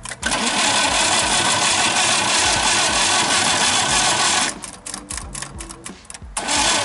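Moskvich 2140's UZAM four-cylinder engine running without its exhaust silencer on a first start after a cylinder-head rebuild. About four and a half seconds in it drops away to an uneven run of pops for a couple of seconds, then picks up again near the end.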